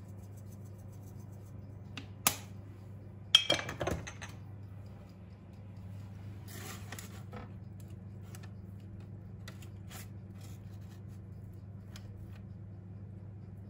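Kitchen handling sounds over a steady low hum: a sharp click, then a quick cluster of glassy clinks, the loudest moment, followed by a short rustle and a few faint ticks.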